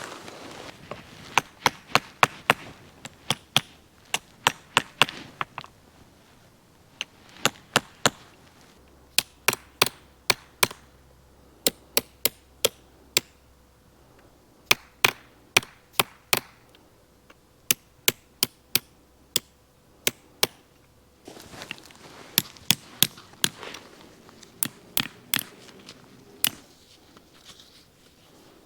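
Repeated sharp striking blows, loud and crisp, in runs of several at about two a second with short pauses between the runs.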